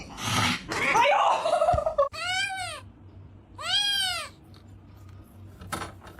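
A rushing noise for the first two seconds, then a cat meowing twice, each meow rising and falling in pitch.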